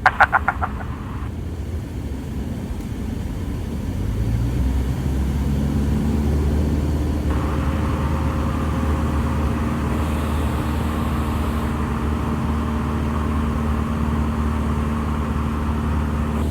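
Single-engine Cessna's piston engine and propeller heard from inside the cabin. About four seconds in, the engine speeds up to a higher, louder setting and then holds steady.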